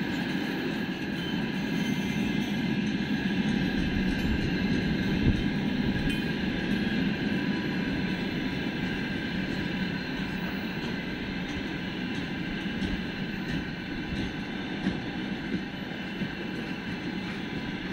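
Freight train of open gondola wagons rolling past: a steady rumble of wheels on rail, with a few light knocks in the second half.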